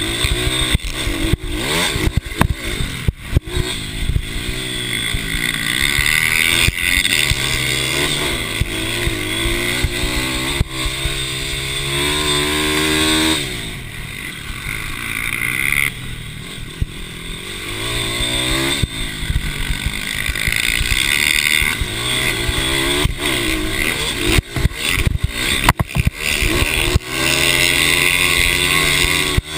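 Racing mini bike motorcycle engines revving up and down, the pitch rising and dropping repeatedly as the bikes accelerate, shift and brake.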